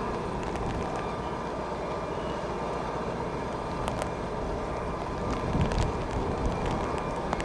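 Distant jet aircraft engines running, a steady rumble with a faint steady whine, while strong gusting wind buffets the microphone and swells louder about five and a half seconds in.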